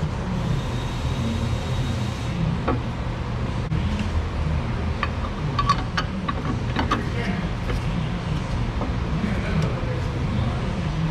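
Scattered light metallic clicks and taps of hand tools against metal, clustered in the middle, over a steady low rumble.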